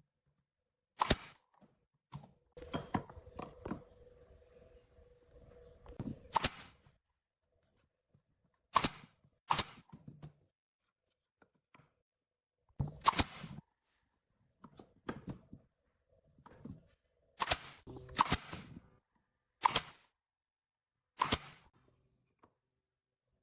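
Sharp, single knocks at uneven intervals, about nine in all, from woodworking: wooden parts and tools being knocked or set down. A faint steady hum sits under the knocks for a few seconds early on.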